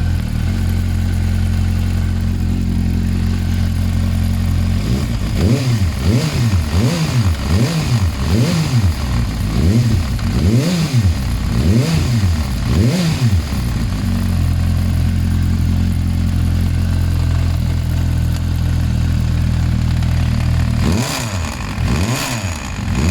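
Vehicle engine idling steadily, then blipped in a series of quick revs about once a second, settling back to a steady idle before being revved again near the end.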